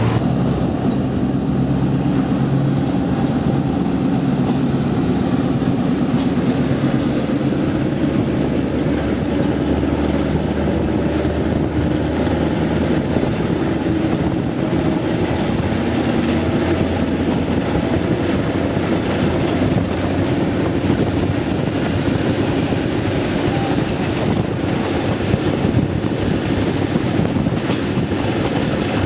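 Passenger train running along the track: a steady rumble of the wheels and carriage with no break.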